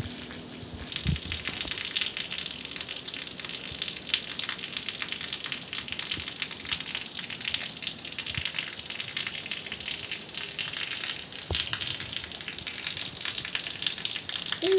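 Steady heavy rain: a dense hiss of countless drop impacts that thickens about a second in and keeps on without let-up. There is a short squeak at the very end.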